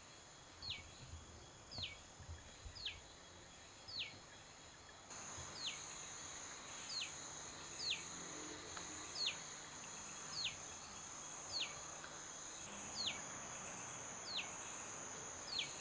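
A bird repeating a short call that sweeps downward in pitch, about once a second, over a steady high insect buzz that comes in about five seconds in.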